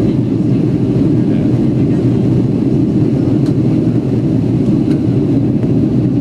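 Steady low roar of a Boeing 757's engines and rushing air, heard from inside the passenger cabin during the climb after takeoff.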